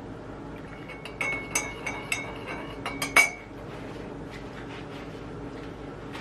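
Dishes clinking together, a quick run of knocks that each ring briefly, the loudest near the end of the run, over a steady low hum.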